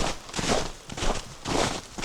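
Footsteps crunching on compacted, frozen snow at a steady walking pace, about two steps a second.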